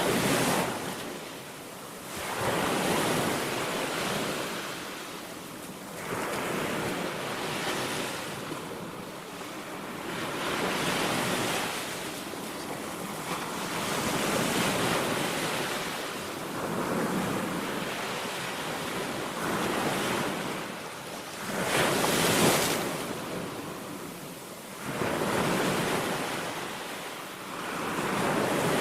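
Waves breaking on the Baltic Sea shore, the surf swelling and falling every few seconds, one surge after another, with wind on the microphone.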